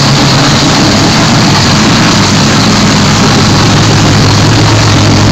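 Supercharged engine of a VJ Valiant, fitted with an 8/71 Littlefield blower and methanol injection, idling steadily and loudly.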